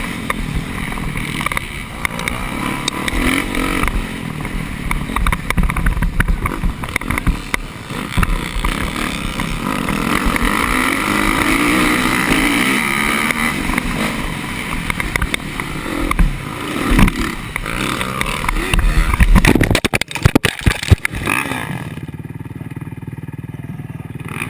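Motorcycle engine running while ridden, rising and falling in pitch with the throttle. A cluster of sharp knocks and clatter comes about three-quarters of the way through.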